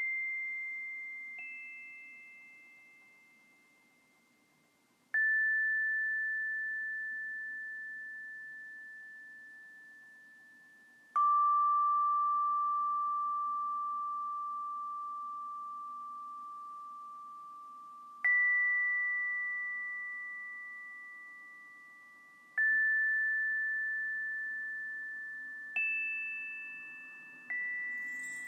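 High, pure chime notes struck one at a time at a slow, uneven pace, about eight in all. Each rings on and slowly fades, often still sounding under the next.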